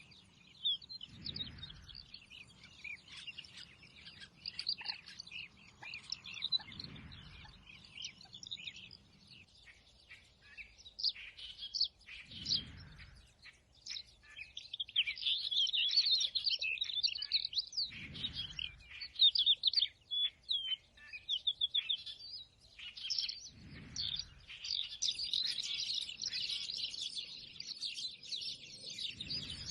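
Many small birds chirping and twittering together in a dense, overlapping chorus that grows busier and louder in the second half. A short, dull low rumble recurs about every five to six seconds.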